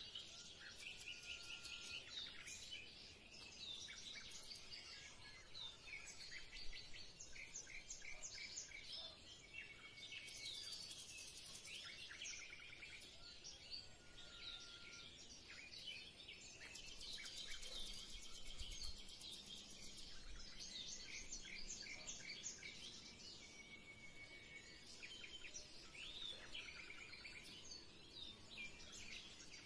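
Small birds chirping and trilling, faint, with many quick calls overlapping continuously.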